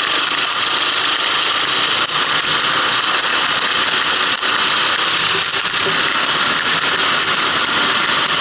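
Kart engine running under way, picked up by an onboard action camera, under a steady loud hiss.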